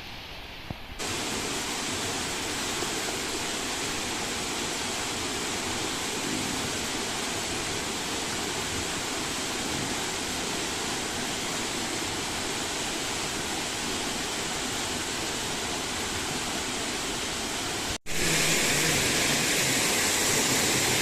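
Waterfall rushing: a steady roar of falling water that starts abruptly about a second in, with a sharp cut near the end into a louder stretch of the same roar.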